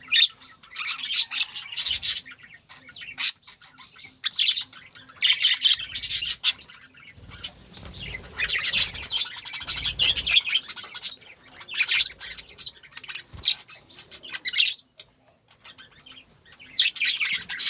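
Budgerigars chirping and chattering in repeated bursts of quick, high notes, with a few low thumps near the middle.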